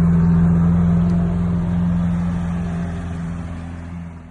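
A car engine running at a steady speed, a low even hum that fades away gradually toward the end.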